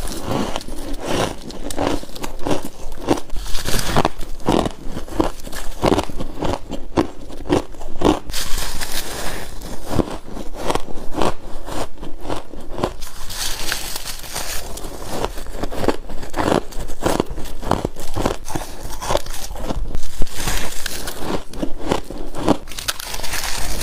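Close-up crunching of frost ice being bitten and chewed: a quick run of sharp crackling crunches, several a second, with brief stretches of gritty crumbling between bites.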